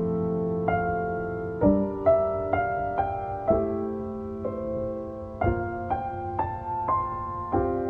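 Slow, gentle background piano music: sustained chords with single notes struck every half second or so, and new chords a little under two seconds in, about three and a half seconds in and about five and a half seconds in.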